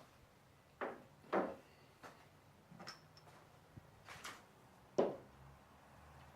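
About six short knocks and clunks at irregular intervals, the loudest about a second and a half in and again near five seconds, like hard objects being handled and set down.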